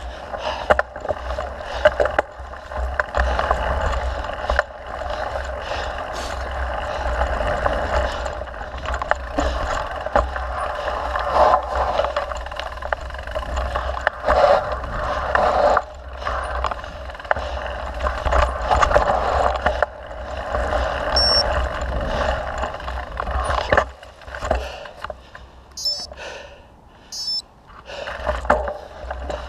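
Mountain bike rolling along a dirt trail, with tyre noise, rattles and clicks from the bike over bumps, and wind buffeting the microphone. It goes quieter for a few seconds near the end.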